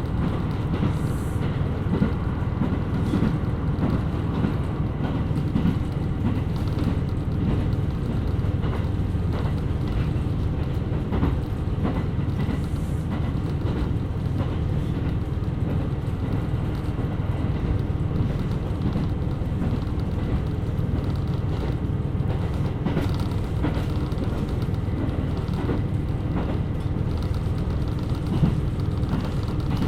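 KiHa 127 series diesel railcar running along the line: a steady low drone of engine and wheels on rail, with faint steady tones and scattered light clicks.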